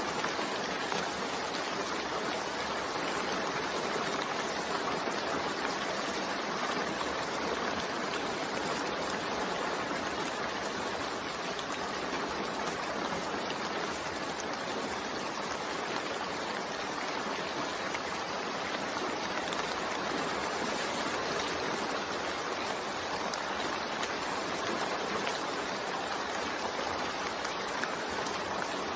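Steady rain falling, an even hiss of water with no breaks or changes.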